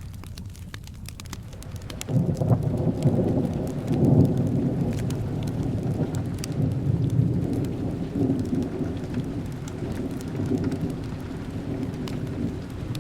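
Steady rain with the scattered sharp pops of a crackling wood fire; about two seconds in a long roll of thunder sets in, loudest soon after, and keeps rumbling low to the end.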